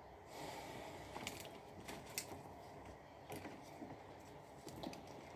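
Faint clicks and scrapes of the plastic parts of a Roomba robot vacuum being handled, with a few sharper ticks about one, two and three seconds in.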